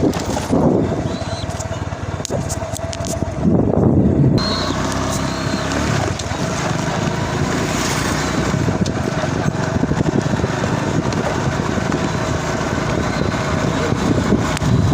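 Small motorcycle engine running at a steady speed while being ridden, with wind on the microphone.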